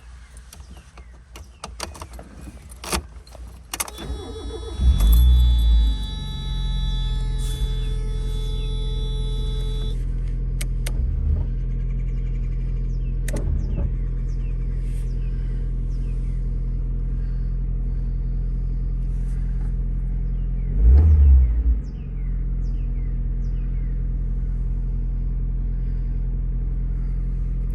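Car engine cold-started: after a few clicks, it cranks and catches about four seconds in with a brief rev, then settles into a steady idle. A steady high tone sounds alongside for the first few seconds of running. A second short rev blip comes about twenty seconds in.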